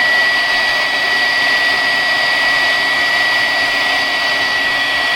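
Heat gun running steadily, a rushing blower noise with a steady high whine, used to soften CA glue so the subwoofer's parts can be peeled apart.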